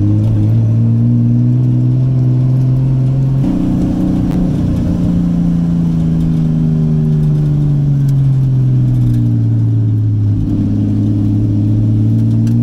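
Nissan 240SX (S14) engine heard from inside the cabin, running at steady revs, then jumping up in pitch about three and a half seconds in and slowly winding down, with another drop in pitch near the end.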